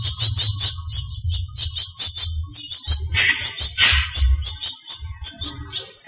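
Small songbirds chirping rapidly and repeatedly, several high chirps a second, with a louder, harsher call about three to four seconds in. A low rumble runs underneath.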